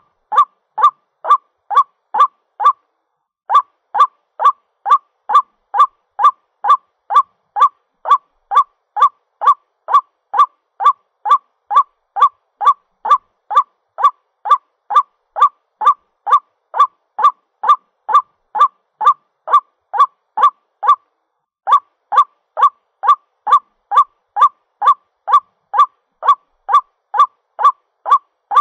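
White-breasted waterhen (ruak-ruak) calling for a mate, played as a bird-trapping lure: one short harsh note repeated about twice a second in a steady series. The series breaks off briefly about three seconds in and again about three-quarters of the way through.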